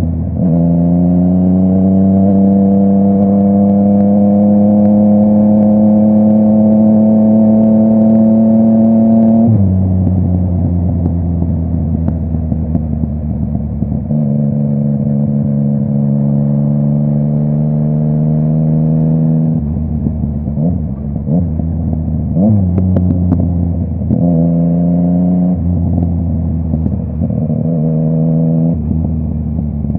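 Yamaha MT-09's inline three-cylinder engine through a full Akrapovic exhaust, under way: a long pull with the pitch rising slowly for about ten seconds, then a drop as the throttle closes, a second pull of about five seconds, and after that shorter blips of throttle with a few crackles off the throttle in between.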